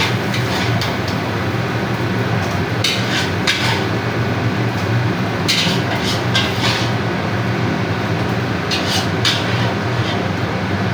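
Metal spatula clanking and scraping against a wok as nasi goreng is stir-fried, in short irregular clatters about every second or two over a steady low rumble.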